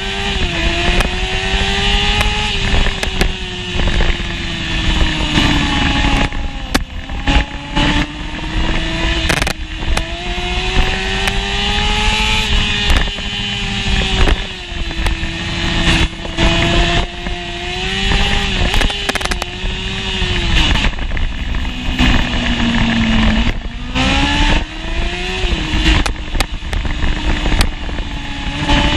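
Honda CBR600F1's inline-four engine at race pace, heard onboard. The pitch climbs under throttle, drops sharply at each gear change, and dips low once before climbing steeply again.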